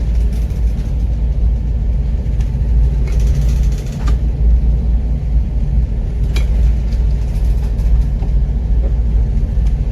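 Deep, steady rumble of a ship's engine underway, with a few brief knocks over it.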